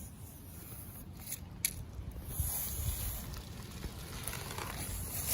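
Scraping and rustling from a harvested wild turkey and a tape measure being handled, with two sharp clicks a little over a second in, over a low rumble.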